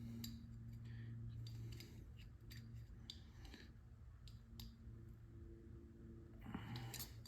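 Faint, scattered small clicks and light taps of the carburetor float and its small metal parts being handled while the float level is adjusted, over a low steady hum.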